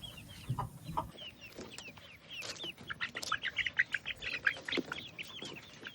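A group of young chickens making many short, high peeps and chirps that overlap, growing busier in the second half.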